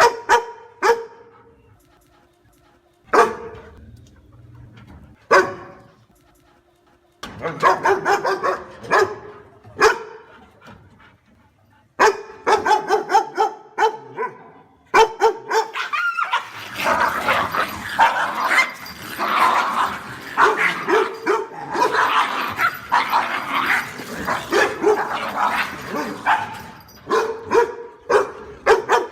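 Dog barking: single barks a second or two apart at first, then quicker runs of barks from about seven seconds in, becoming dense, nonstop barking over the second half.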